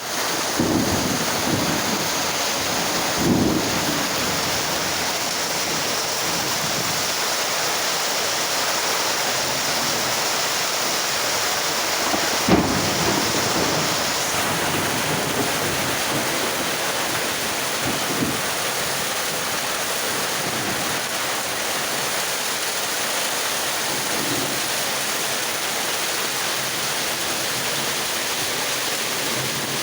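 Steady heavy rain falling, an even hiss throughout, with a few brief louder knocks of drops striking nearby, the sharpest about twelve seconds in.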